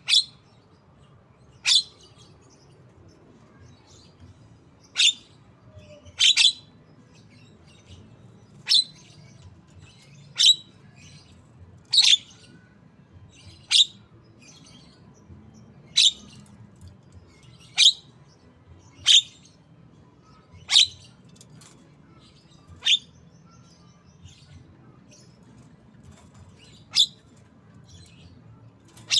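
Javan myna giving short, sharp single calls, about fifteen, spaced one to two seconds apart with a longer pause near the end, in its mimicry of the white-rumped shama.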